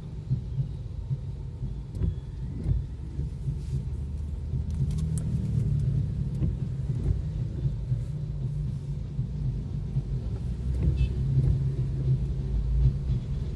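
Low, steady rumble of a vehicle driving, with a few faint clicks and little rain hiss.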